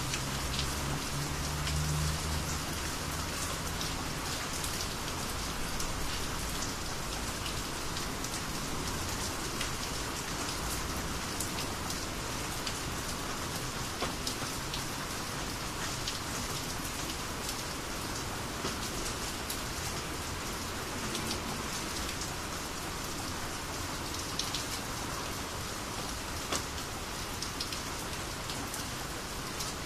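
Steady rainy-season rain falling, with many separate drops ticking close by over an even hiss of rain. A low rumble sits under the rain for the first few seconds.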